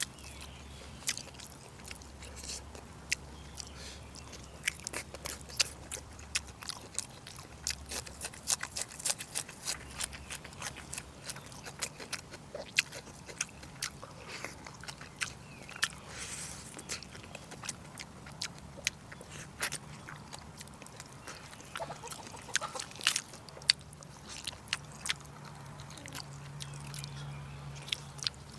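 A person eating braised pork close to the microphone: chewing, with frequent irregular mouth clicks and smacks over a steady low hum.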